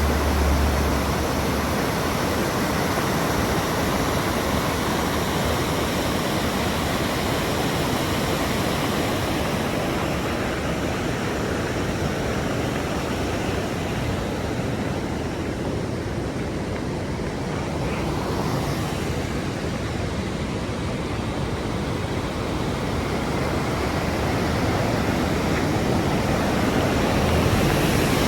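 Waterfall rushing: a loud, steady rush of falling water that eases slightly midway and grows again near the end.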